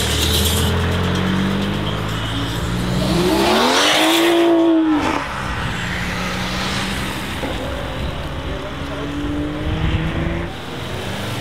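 A modified performance car's engine accelerating away: its revs climb to a loud peak about four to five seconds in and drop off suddenly, then an engine note climbs again.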